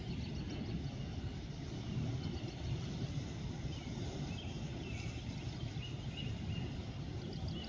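Outdoor ambience: a steady low rumble, with faint short bird chirps in the middle.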